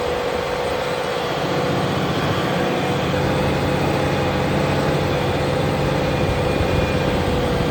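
Fendt tractor's diesel engine running steadily while ploughing, with a constant whine held over the engine note.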